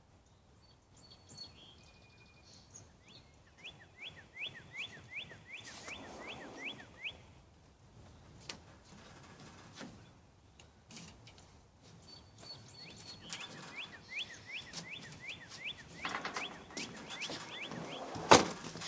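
A songbird singing a fast series of downward-slurred chirps, about three or four a second, in two runs of several seconds each. A faint rustle and a sharp knock come near the end.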